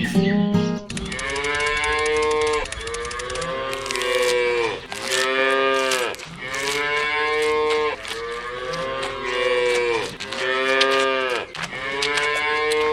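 Cattle mooing: a run of about seven long calls, one after another, each falling in pitch at its end.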